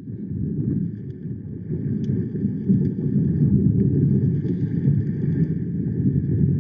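A steady, low, engine-like rumble from a theatrical sound-effects gramophone record, starting suddenly out of silence.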